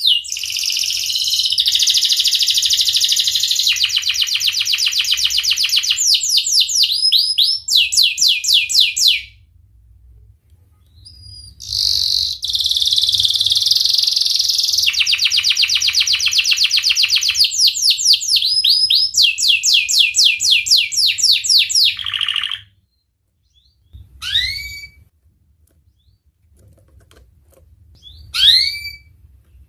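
Domestic canary singing: two long, loud phrases of rapid repeated trill notes, each lasting about ten seconds with a short pause between them, followed by a few single sharply rising chirps near the end.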